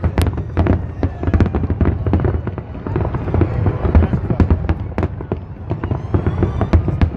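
Aerial fireworks display: a rapid, irregular series of bangs and crackles from bursting shells over a steady low rumble.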